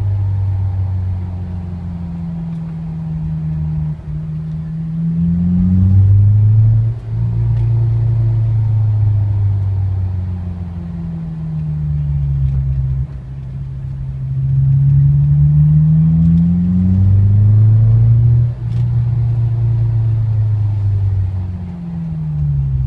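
Honda S2000's inline-four engine running while driving. The engine note falls slowly as the car slows on engine braking, then rises again under acceleration, several times over. The owner hears a strange noise from it only while engine braking, between about 2,000 and 4,000 rpm.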